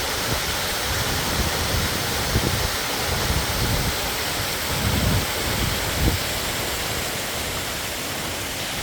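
Steady rush of water flowing over the top of Wentworth Falls. Wind buffets the microphone with a few brief low rumbles in the middle.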